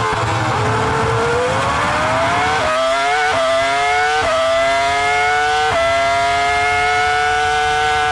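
Onboard sound of a Formula 1 V10 engine: the revs sag briefly, then climb as the car accelerates, with four quick upshifts about a second apart, each one a sudden drop in pitch followed by a fresh rise that gets slower in the higher gears.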